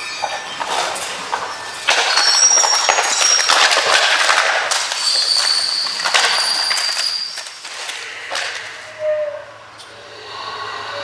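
Rusty pulleys, cranks and gears squealing and clattering as wire is hauled, with high metallic squeals held for a second or two at a time. It grows quieter near the end.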